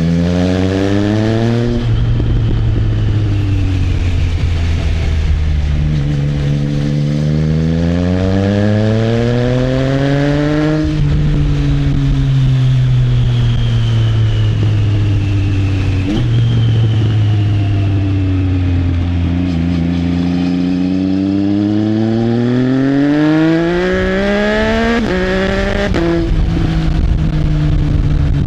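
Triumph Trident 660's three-cylinder engine through an Arrow exhaust, under way: the revs fall, climb for several seconds, ease back down, then climb again, with two sudden drops in pitch about a second apart near the end, like quick upshifts.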